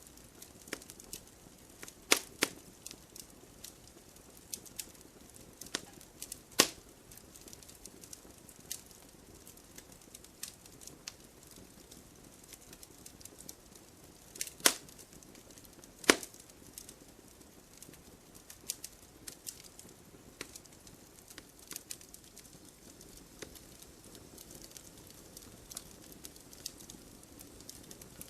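Firewood burning, crackling with a soft hiss and irregular sharp pops and snaps, a few much louder than the rest.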